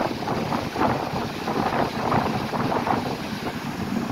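Passenger train carriage running along the track: a steady rumble of wheels on rails mixed with rushing wind noise.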